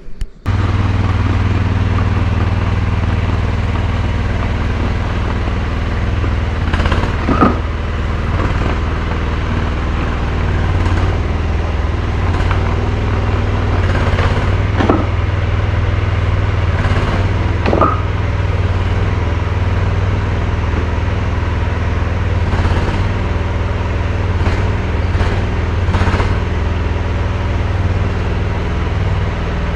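Mini excavator engine running steadily, with a few short knocks about seven, fifteen and eighteen seconds in.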